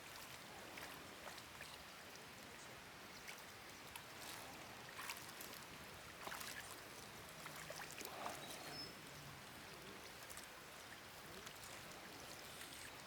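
Faint running water, with a few short clicks.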